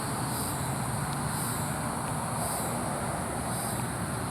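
Outdoor ambience: a steady low rumble of distant road traffic under a high insect chorus that swells and fades about once a second.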